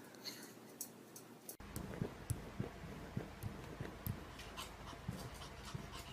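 A dog moving about, with soft clicks and scuffs; about a second and a half in the background changes abruptly to a low steady hum.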